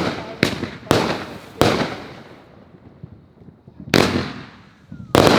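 Loud, sharp bangs from consumer firework mortars, each trailing off in echo: four in quick succession over the first two seconds, a lull, one about four seconds in, and a close double near the end.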